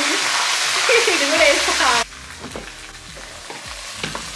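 Food sizzling in a hot pot on the stove as it is stirred. The sizzle is loud at first, drops off sharply about two seconds in, and goes on more quietly with the knocks and scrapes of a wooden spatula in the pot.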